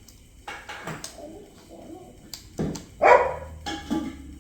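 A dog barking twice, short and loud, about two and a half and three seconds in.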